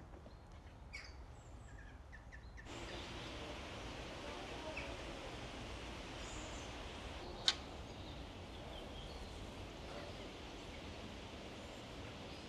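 Small birds chirping now and then over outdoor background noise; about three seconds in, a steady hiss of noise comes in suddenly and stays, and there is one sharp click near the middle.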